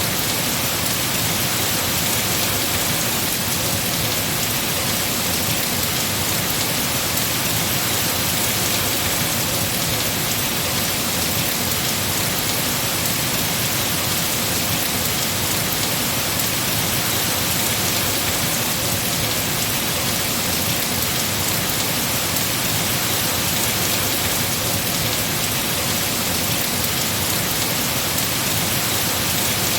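Heavy rain falling steadily on tree foliage, a dense even hiss of rain without pauses.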